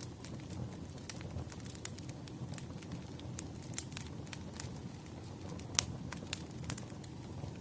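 Firewood burning with an irregular crackle of small pops and snaps over a low steady rumble; one sharper pop stands out near the end.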